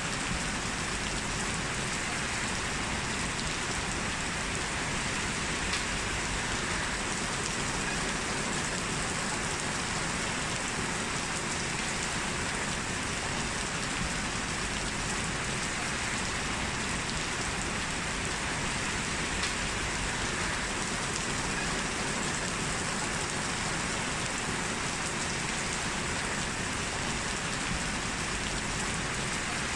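Heavy rain falling steadily, a dense, even hiss of raindrops with scattered individual drop ticks.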